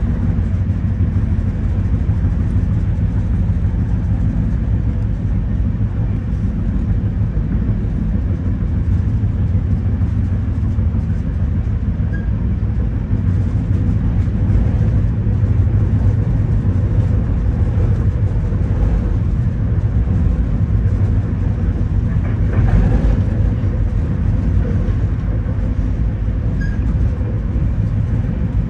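Steady low rumble of a passenger sleeping car rolling along the track at speed, heard from inside the car, with a brief louder swell about three-quarters of the way through.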